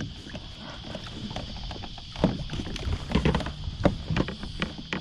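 Irregular knocks and splashing as a hooked flathead is held in the water beside a kayak and the lure is worked free of it, busiest in the second half. A steady high-pitched hiss runs underneath.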